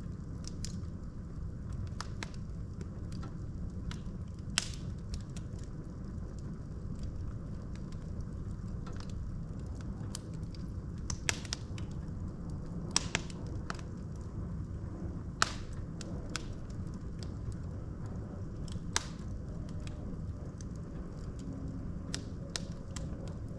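Wood fire burning in a fireplace: a steady low rumble of the flames with scattered sharp crackles and pops from the logs, the loudest a handful of snaps spread through the stretch.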